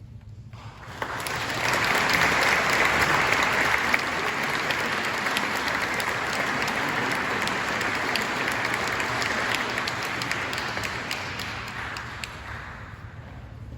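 Audience applauding. The clapping starts about a second in, quickly swells, holds steady, then dies away near the end.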